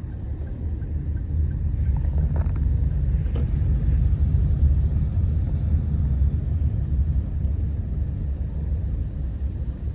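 Steady low rumble of a road vehicle in motion: engine and road noise, with a few faint clicks.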